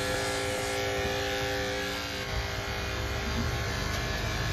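Electric pet hair clippers buzzing steadily while trimming a dog's coat, a constant motor hum with a few fixed tones that fade a little about halfway through.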